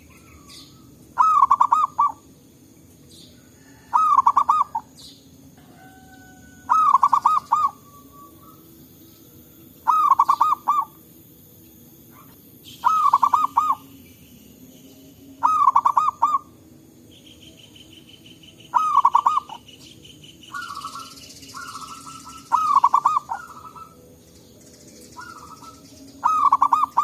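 Zebra dove (perkutut) cooing: a loud, rippling phrase of quick notes repeated about every three seconds. Near the end, fainter, shorter coos from another dove answer between the phrases.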